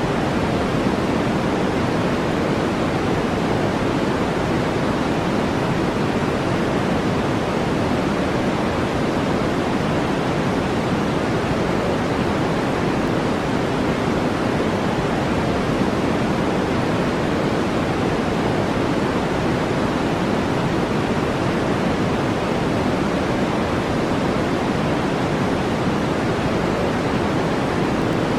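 Steady, unchanging brown noise: an even, deep hiss with most of its weight in the low-middle range, fading toward the treble, with no breaks or events.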